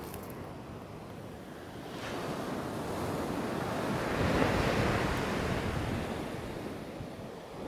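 Ocean surf breaking on a beach: a wave swells up about two seconds in, is loudest around the middle, and washes out toward the end, with wind buffeting the microphone.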